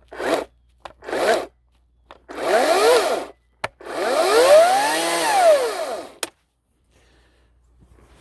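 Ryobi 40-volt battery chainsaw with an 18-inch bar, triggered in four bursts, two short and then two longer, its electric motor and chain whining up in pitch and winding back down each time, with sharp clicks between bursts. It is being test-run just after its chain was tensioned.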